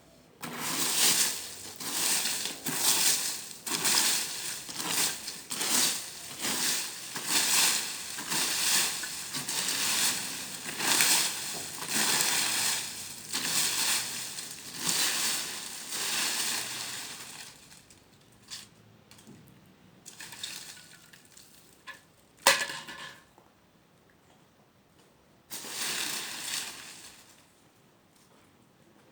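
Repeated crunching of dry material, about one crunch a second, which stops after about 17 seconds; a single sharp snap comes a few seconds later, then one more short stretch of crunching.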